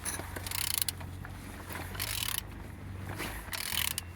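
Used engine's crankshaft being turned over by hand with a ratchet tool: three bursts of rapid ratchet clicking, about one every second and a half, over a steady low hum. The engine turns freely.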